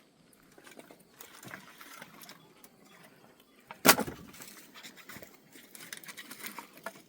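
A single sharp knock or thump about four seconds in, over faint rustling and handling noises.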